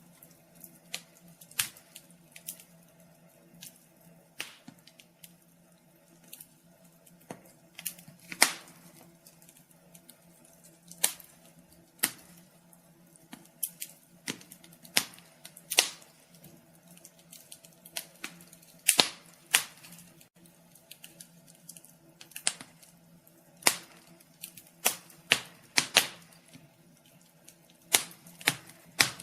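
Wood fire crackling in a fireplace: irregular sharp pops and snaps, some much louder than others, over a faint low steady hum.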